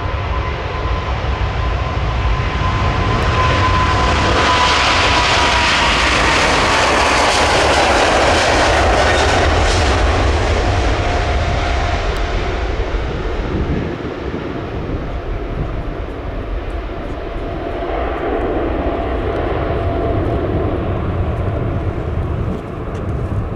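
Boeing 777-200ER's twin jet engines at takeoff thrust as the airliner passes: a roar that swells to its loudest several seconds in, with a fan whine dropping in pitch as it goes by, then easing off. Low wind rumble on the microphone underneath.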